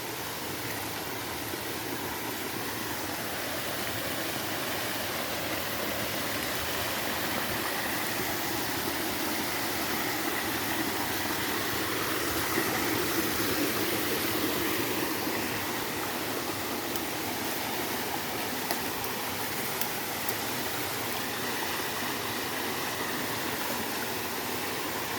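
Steady rush of flowing water from a creek tumbling over rocks, growing a little louder toward the middle and easing slightly after.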